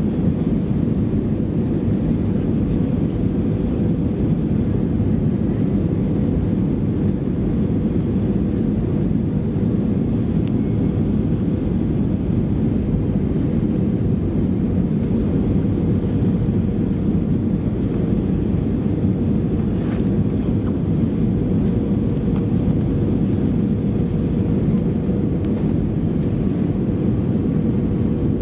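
Steady cabin noise inside an Airbus A320-214 in flight: airflow and engine drone, with a faint steady hum.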